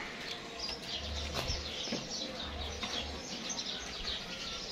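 Small birds chirping and twittering, many short high calls one after another.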